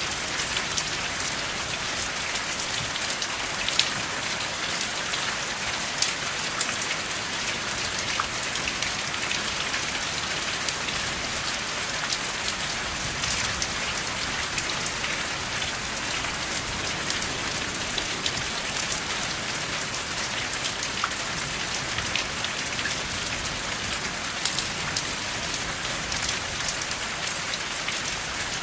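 Steady rain falling, with many sharp individual drop strikes sounding through the even hiss.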